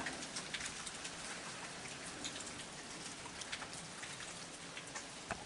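Steady heavy rain falling, with scattered drops ticking close by.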